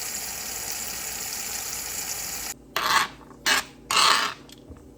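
Kitchen tap running steadily, shut off about two and a half seconds in, followed by three short rushes of noise.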